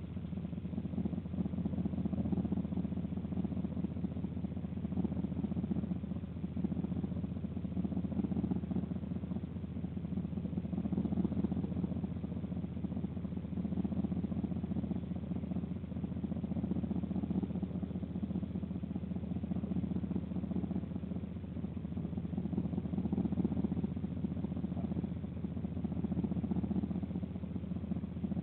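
A steady low mechanical hum that swells and eases every few seconds.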